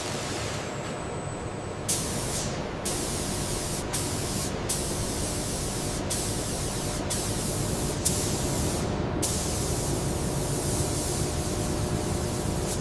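Assembly-plant noise: a steady low machinery hum under a loud hiss that cuts in and out abruptly every second or so.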